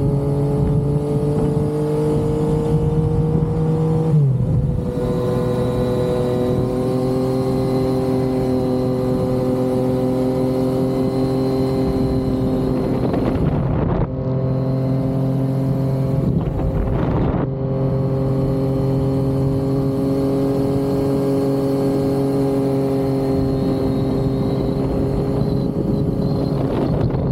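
Yamaha XSR900's inline three-cylinder engine running steadily while being ridden, heard on board. The engine note steps down about four seconds in and breaks briefly twice more around the middle.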